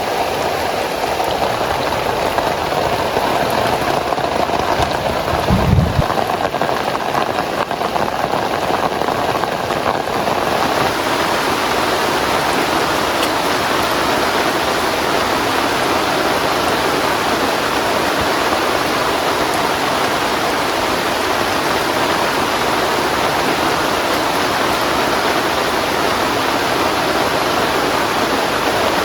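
Heavy rain falling steadily. There is a brief low thump about six seconds in, and around ten seconds in the sound turns to a denser, more even rush.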